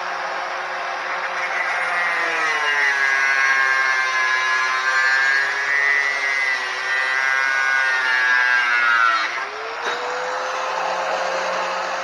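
Handheld power grinder grinding on the steel frame. The motor spins free at first, and about two seconds in its pitch drops under load as the grinding hiss sets in. It holds there for several seconds, then the load comes off and the motor spins back up to full speed.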